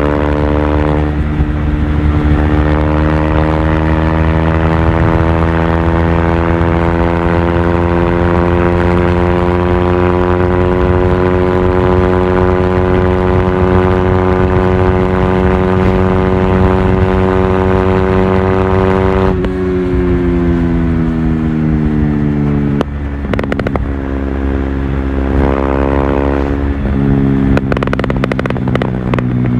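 KTM RC 390's single-cylinder engine, in Stage II tune, riding at steady revs that climb slowly. About two-thirds through, the throttle shuts and the revs fall, broken by a couple of gear changes, then pick up again near the end.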